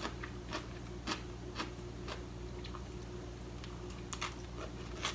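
A person chewing crunchy burdock and cucumber salad: faint, irregular crunches every half second or so, over a steady low hum.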